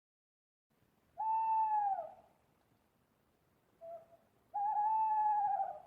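Owl hooting: two long hoots about three seconds apart, each dropping in pitch at its end, with a short soft note just before the second.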